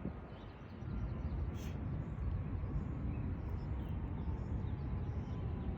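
Outdoor background noise: a steady low rumble, with faint bird chirps over it.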